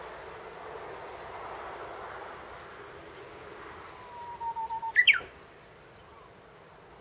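Japanese bush warbler (uguisu) singing its hoo-hokekyo song once: a held, slightly falling whistle about four seconds in, then a quick, loud, sweeping flourish. A steady background hiss fades out in the first few seconds.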